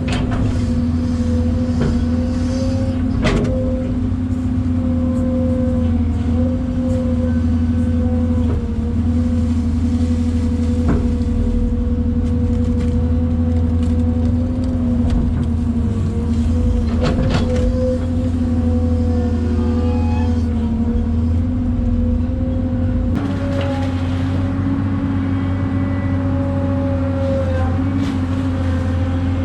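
An engine running steadily at an even speed, its note stepping up slightly about 23 seconds in, with a few faint clicks.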